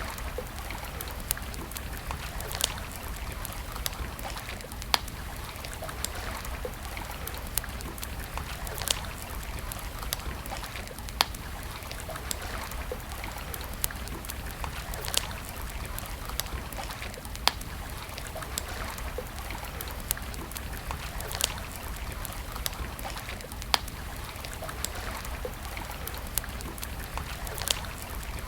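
Wood campfire crackling, with sharp, irregular pops about every second or two over a steady rushing hiss.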